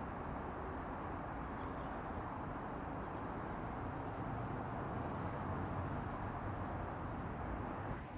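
Aircraft engines passing overhead: a steady rumbling roar that grows a little louder past the middle and eases near the end.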